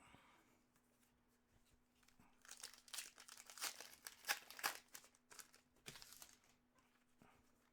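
Foil trading-card pack wrapper being torn open and crinkled, a run of crackly strokes for a couple of seconds in the middle, with a few light clicks before and after.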